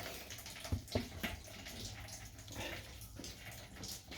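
Petrol trickling out of a Honda GX110 engine's fuel tank as it drains, with a few light clicks about a second in.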